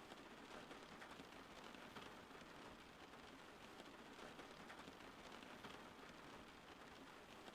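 Steady, faint rain, with a fine patter of individual drops.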